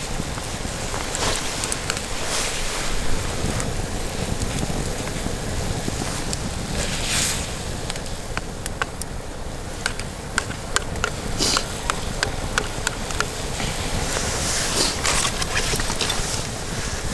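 Wood campfire crackling, with sharp pops scattered throughout over a steady rushing noise.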